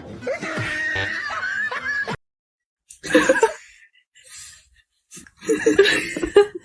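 People laughing in short bursts, broken by a moment of dead silence about two seconds in.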